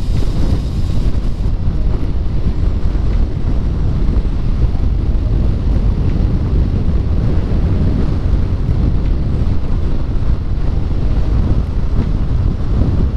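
Steady wind buffeting the microphone of a rider on a moving electric motorcycle, a loud, even low rumble.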